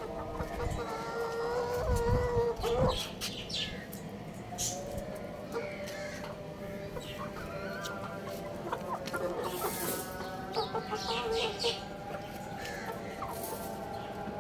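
Young rooster and chickens clucking, with one long drawn-out call over the first three seconds and short high chirps scattered through.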